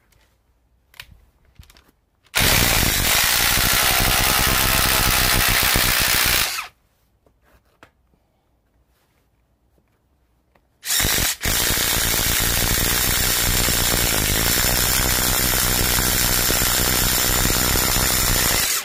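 Ryobi cordless impact driver boring a 1-inch paddle bit into wood at full speed, hammering steadily. It runs in two bursts: about four seconds, a pause, then about eight seconds with a brief dip just after it starts.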